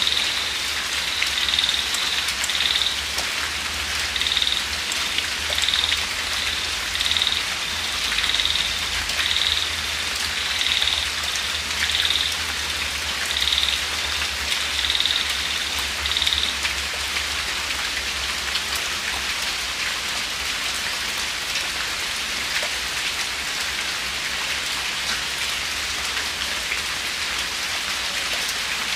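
Steady light rain falling, an even hiss of drops. For the first half a high-pitched call repeats about once a second, then stops about sixteen seconds in.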